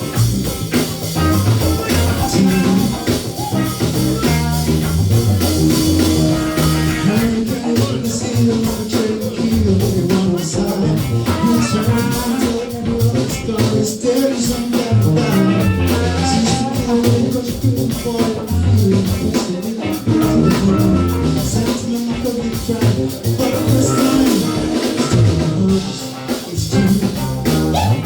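Live band playing a soul-rock cover, with electric guitar, bass and drum kit, and a singer's voice over the top.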